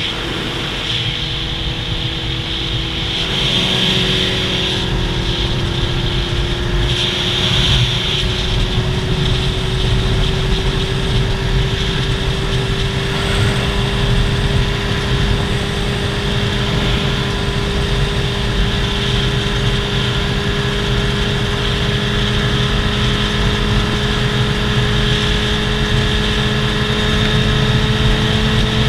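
Motorcycle inline-four engine running steadily under way, its pitch climbing slowly and smoothly as the bike gradually gains speed.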